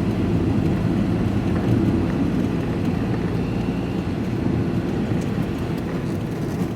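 Diesel truck's engine and tyre noise heard from inside the cab while driving: a steady low rumble.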